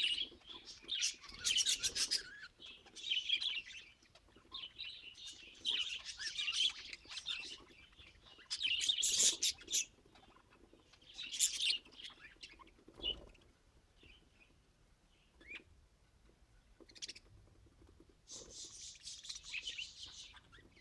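Budgerigars chirping and chattering in repeated bursts of high, rapid notes, with a quieter stretch about two-thirds of the way through.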